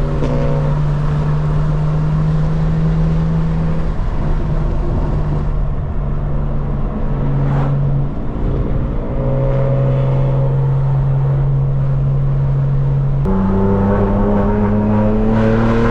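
Straight-piped BMW M4 Competition's twin-turbo inline-six exhaust under way. It holds a steady note, steps down and back up around the middle, then about thirteen seconds in jumps and climbs in pitch as the car accelerates hard.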